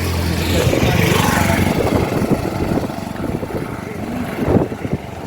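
A motor vehicle passing close by on the road: a steady engine hum that fades away over the first couple of seconds, with a loud rush of noise around it.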